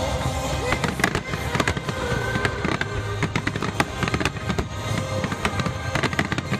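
Fireworks bursting and crackling in quick, irregular succession, mixed with music.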